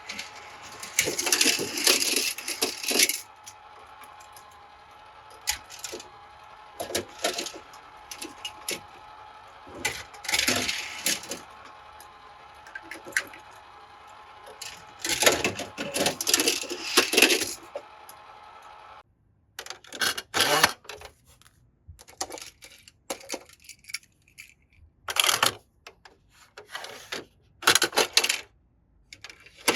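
Die-cast toy cars and hard plastic pieces clicking and clattering in quick clusters as they are handled, with a steady background hum that cuts off about two-thirds of the way through.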